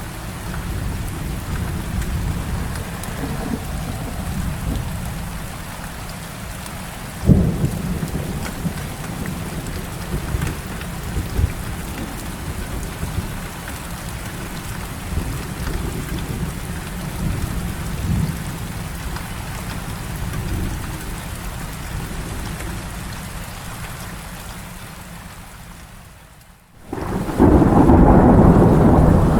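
Heavy rain with rolling thunder, including one sharp clap about a quarter of the way in. Near the end the sound briefly drops away, then a loud burst of thunder and rain breaks in.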